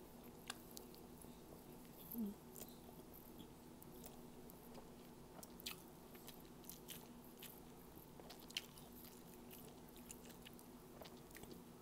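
Faint chewing of fried squid and rice, with scattered small mouth clicks and smacks and a brief low hum about two seconds in, over a faint steady background hum.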